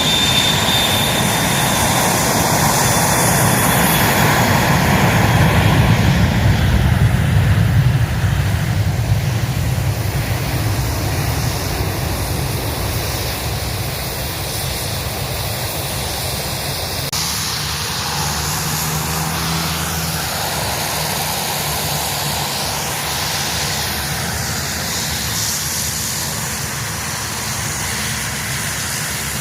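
Aircraft engine noise from a plane flying past, a rushing roar that grows loudest about six to eight seconds in and then fades to a steady lower rumble.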